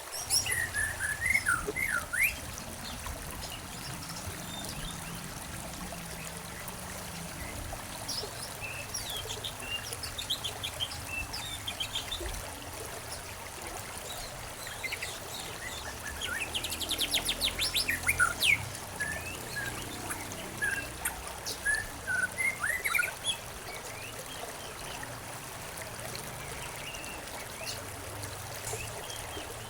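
Songbirds chirping in scattered bursts over the steady trickle of flowing stream water, with a fast trill about halfway through.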